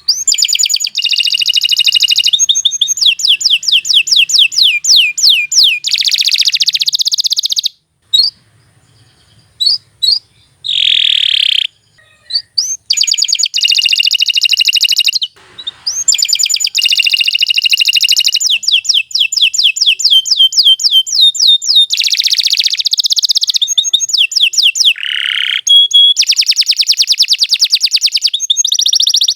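Domestic canary singing a long, continuous song of rapid trills and rolling repeated notes. About eight seconds in it breaks into a few short separate notes for several seconds, then takes up the long trilled phrases again.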